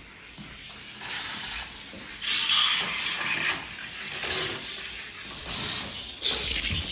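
A modified, roughly 62-gram die-cast toy Lamborghini rolling down a gravity race track, its wheels rattling on the track in surges that rise and fade, with a sharp click near the end.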